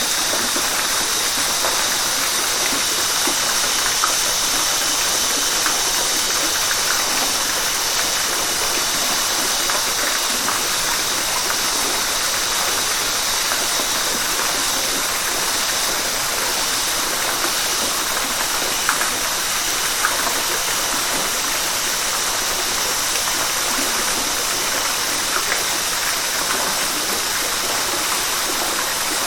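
River water rushing and splashing in a steady, unbroken hiss, with small splashes flicking through it now and then.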